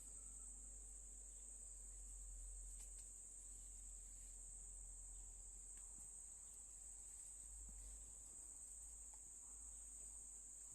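Faint, steady high-pitched chirring of crickets or other insects, with a low rumble underneath.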